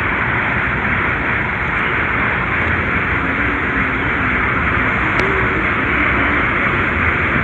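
Steady rushing noise of water, with faint voices in the background from about three seconds in.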